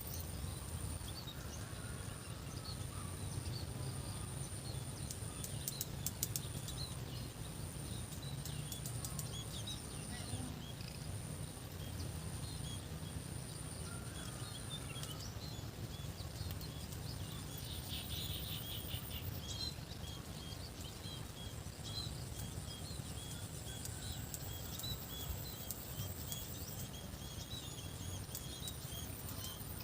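Countryside ambience: many small birds chirping throughout, over a steady low rumble and an on-and-off thin high whine.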